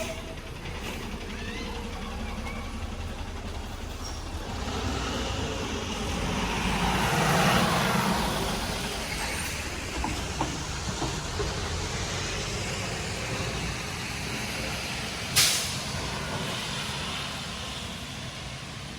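A vehicle passing on a wet street, its tyre noise swelling to a peak around the middle and fading away, over steady rain. A short sharp hiss comes about three-quarters of the way through.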